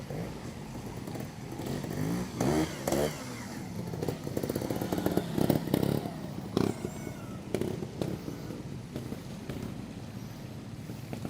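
Trials motorcycle engine revved in short bursts as it is ridden through a section, with quick rising revs early on and the loudest run of throttle about halfway, then settling back to a lower, steadier running.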